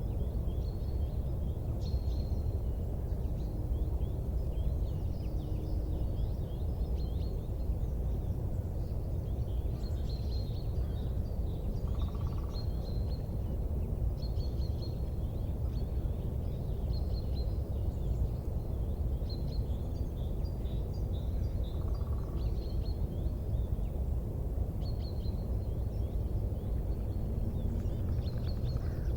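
Steady low rumbling noise with frequent short, high chirps of small birds calling over it, and a brief higher tone twice.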